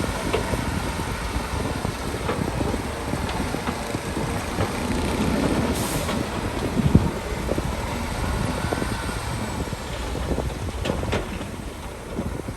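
Shantui DH17C2 crawler bulldozer running and moving on its steel tracks: a steady engine rumble with irregular clanks and knocks from the tracks, with one louder knock about seven seconds in.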